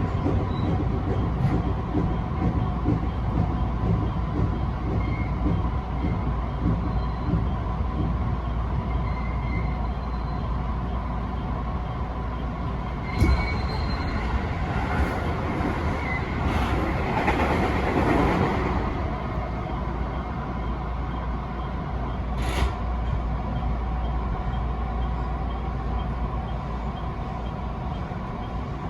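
Electric passenger train running along the line, heard from on board: a steady rumble of wheels on rail. There are two sharp clicks, one about halfway through and one later, and a brief louder rush of noise just after the first click.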